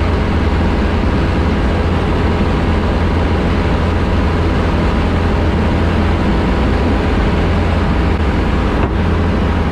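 Light aircraft's piston engine and propeller running steadily at high power on take-off and climb-out, a constant loud drone.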